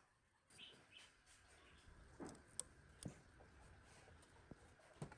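Near silence: faint room tone with a few soft, scattered taps.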